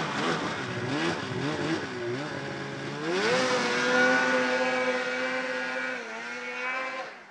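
A 2003 Polaris RMK 700 snowmobile's two-stroke twin, running with no muffler behind its SLP pipe, being blipped on the throttle. About three seconds in it revs up and holds a higher, steady pitch, then the revs drop away sharply near the end.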